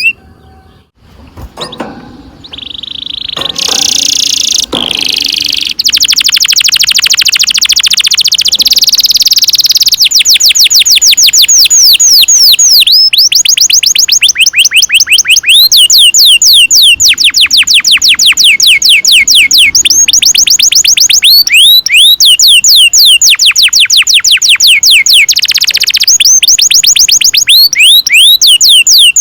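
Domestic canary singing long rolls: after a few scattered chirps, it runs into fast trills of quick, repeated sweeping notes, each run lasting several seconds with only brief breaks.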